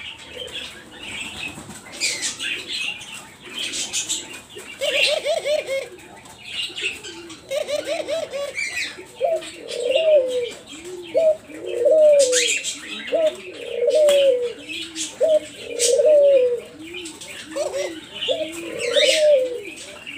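Dove cooing over and over, a low rolling coo about once a second starting about five seconds in. Higher chirps from small birds are heard throughout.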